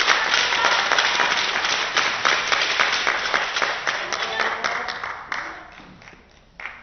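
Arena crowd applauding, many hands clapping, dying away over the last couple of seconds. A single short, sharp sound comes near the end.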